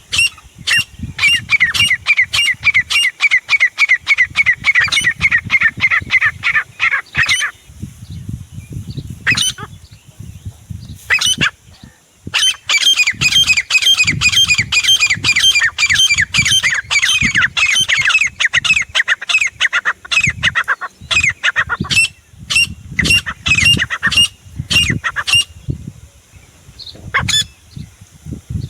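Grey francolin (desi teetar) calling loudly: a fast run of short, shrill notes, about three a second, that falls silent for a few seconds and then starts up again in a second long run.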